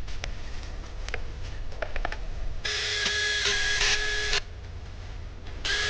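Clicks of handling, then an electric hammer drill test-run after new gaskets were fitted against an oil leak: its motor whines at a steady pitch for under two seconds, stops, and starts again near the end.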